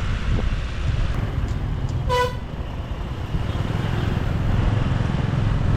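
Steady low rumble of a motorbike riding in city traffic, with one short horn toot a little over two seconds in.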